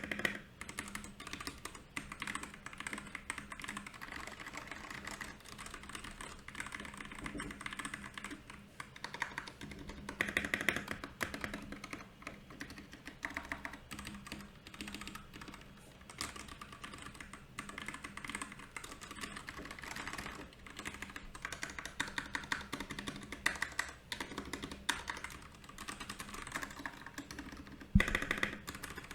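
Continuous typing on a Royal Kludge RK68 mechanical keyboard, a steady irregular stream of key clicks, with a single louder knock near the end.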